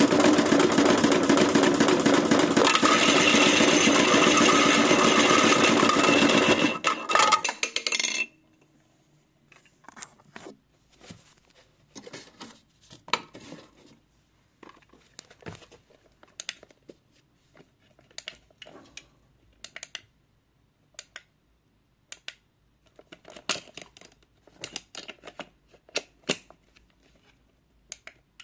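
AEG washing machine running loudly with a steady rushing, rumbling noise, which stops about seven seconds in. For the rest there are only scattered light clinks and knocks of small hard objects.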